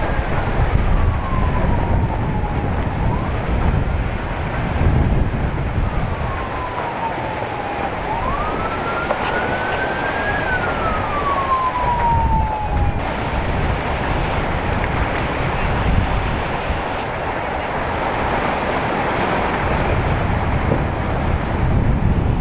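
Emergency vehicle siren in a slow wail, rising and falling every few seconds, then dying away about halfway through. A steady, loud rushing noise with low rumble runs underneath.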